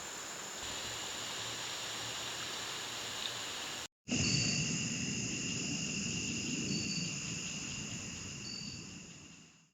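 A chorus of insects singing steady high trills. About four seconds in the sound cuts out briefly and comes back louder, with a few short higher chirps, then fades out near the end.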